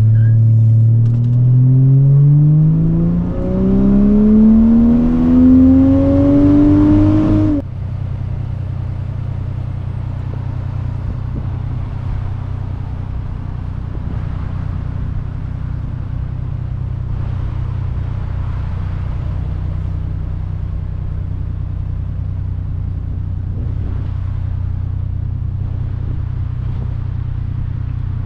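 Chevrolet Trailblazer's 4.2-litre straight-six engine climbing steadily in pitch under throttle for about seven seconds, then cutting off suddenly. After that the engine idles steadily.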